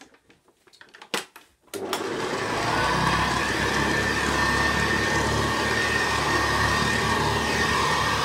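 Vintage Hoover Senior 652A upright vacuum cleaner switched on: a few clicks, then the motor starts about two seconds in and comes up to a steady run with a high whine. The brush roll is a bit rattly.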